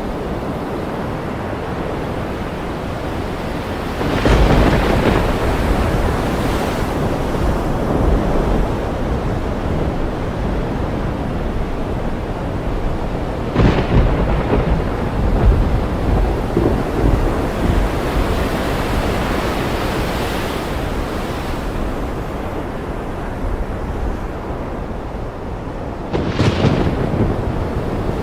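Thunderstorm recording: thunder cracks and rumbles three times, about four seconds in, in the middle and near the end, over a steady wash of ocean surf and rain.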